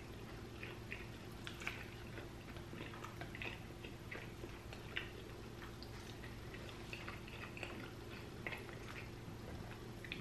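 A man chewing and eating with quiet, irregular mouth clicks and smacks, over a faint steady hum.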